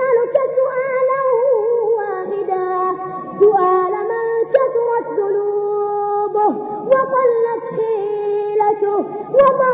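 A high voice chanting wordlessly or with drawn-out syllables in long, wavering held notes that slide between pitches. A steady low hum lies underneath.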